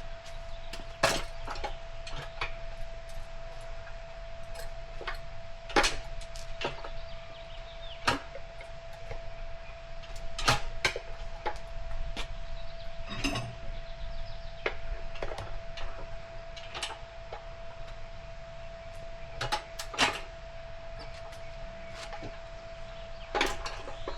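Tire irons clinking and knocking against an aluminum dirt bike rim as a tire is levered on, in scattered sharp knocks at uneven intervals, over a steady faint hum.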